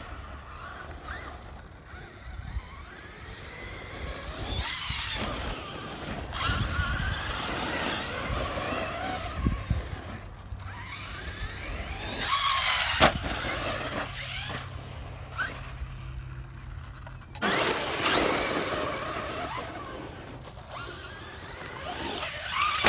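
Traxxas Hoss 4x4 VXL RC monster truck driving over rough ground. Its brushless electric motor whines up and down in pitch as it accelerates and slows, over tyre noise, with a sharp knock about halfway through.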